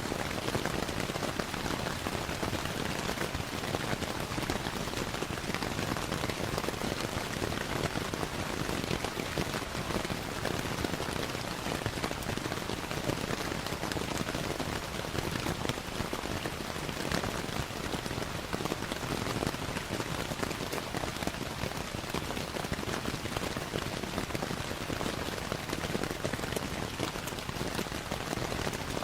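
Steady rainfall mixed with a crackling fire, a dense even hiss scattered with many small pops and ticks.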